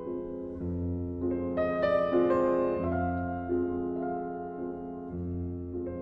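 Solo piano playing a slow melody over held chords, with a deep bass note struck anew every two seconds or so.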